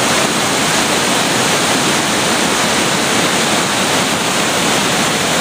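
Cuyahoga River waterfall: a loud, steady rush of falling water.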